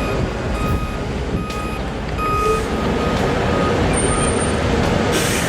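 A heavy vehicle's reversing alarm beeps about twice a second over the steady rumble of a diesel engine running. There is a short hiss near the end.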